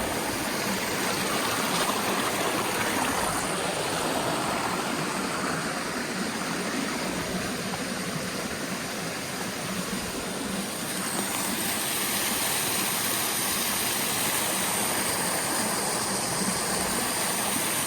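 Steady rush of a small stream's water spilling over a waterfall's drop.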